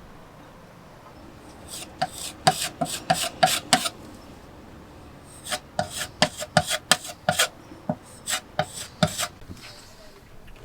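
Hand tool scraping across the wooden companionway hatch lid in quick short strokes, two runs of them with a pause in between, as the cracks are worked with wood filler.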